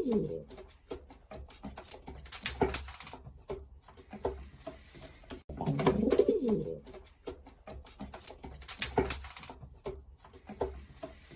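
Racing pigeons cooing, with a strong coo about six seconds in, among scattered clicks, knocks and rustles.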